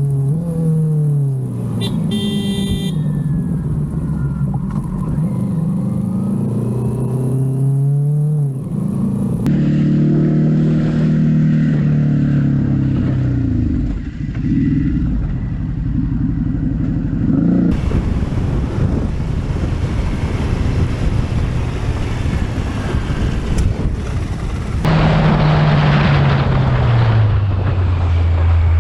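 Motorcycle engines accelerating and shifting, their pitch climbing and dropping again and again, over several clips cut one after another. A short high-pitched tone sounds about two seconds in.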